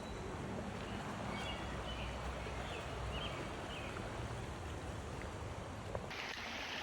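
Steady rushing of a stream, with a few faint short bird chirps in the middle.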